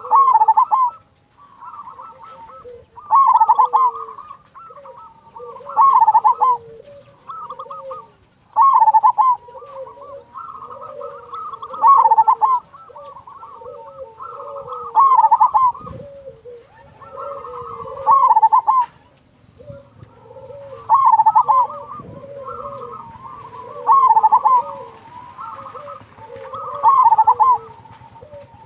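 Zebra dove (perkutut) cooing: loud phrases of rolling coos repeating about every three seconds, with softer, lower coo notes in between.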